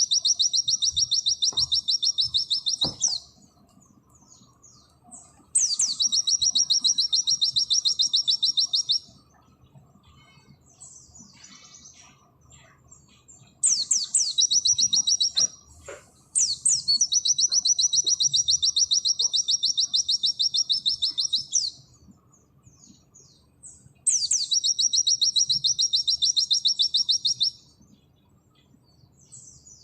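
Pleci (white-eye) singing its long, very fast high 'nembak' trills: one trill ends about three seconds in, and four more of three to five seconds each follow, two of them back to back. Soft short chirps fill the gaps between trills.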